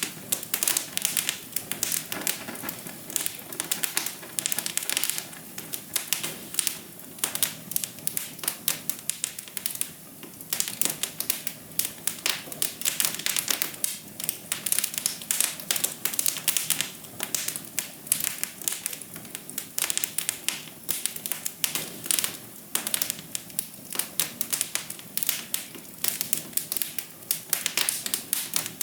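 Fire crackling in a fireplace: a dense, irregular run of sharp pops and snaps over a steady low hiss.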